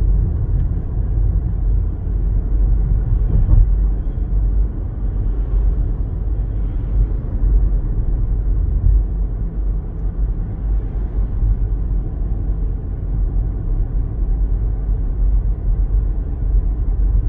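Car driving, a steady low rumble of engine and road noise without sharp changes.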